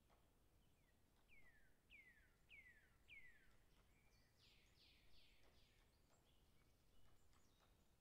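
Faint bird calls: four descending whistled notes about half a second apart, then a quick run of four higher notes, over a quiet outdoor background.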